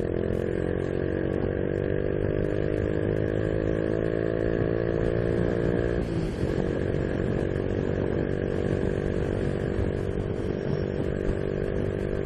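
Honda Biz 125's single-cylinder engine pulling under acceleration, its pitch climbing slowly, then dropping briefly about halfway through at a gear change before it pulls on, with wind and road noise.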